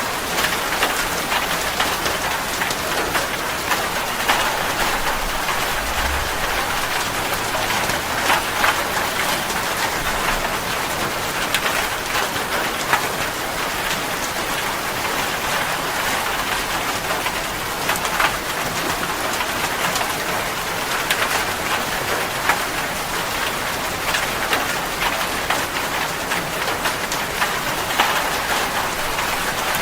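Steady rain falling on a hard surface: an even hiss with many individual drops splatting through it.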